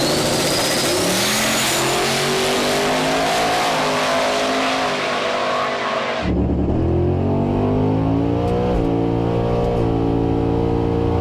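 Twin-turbo 427 LSX V8 car engine accelerating hard, its pitch climbing over a rush of noise; about six seconds in the sound cuts abruptly to the engine running at lower, steadier revs, stepping up in pitch.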